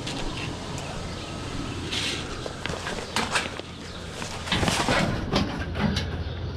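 A scrap metal cot frame being handled, with a piece pulled off by hand: a series of sharp clanks and rattles, loudest about four and a half to six seconds in.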